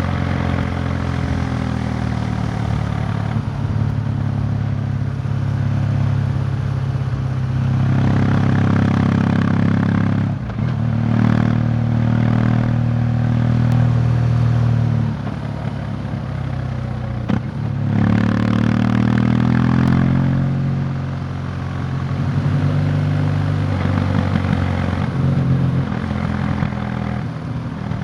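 Motorcycle engine running under way, its pitch rising and falling with the throttle and dropping off briefly twice.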